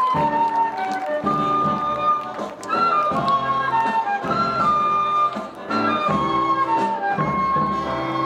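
Flute playing a melody of held notes over a lower accompaniment.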